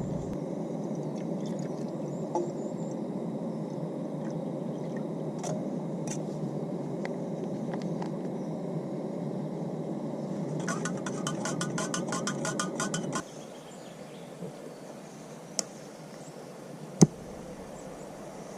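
A spoon clinking rapidly against a cup for about two seconds while stirring a drink mix, over a steady low rushing noise that cuts off suddenly just after; then a few separate clicks, one sharp one near the end.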